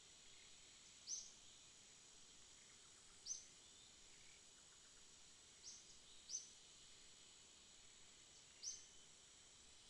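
Faint night ambience: a steady high-pitched insect trill, with a short high chirp every one to two and a half seconds, five in all.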